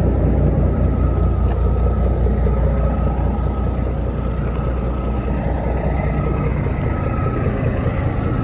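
A 1995 Mack CH613 heavy-haul truck's single-turbo diesel engine idling steadily, with a thin steady whine above the low engine note.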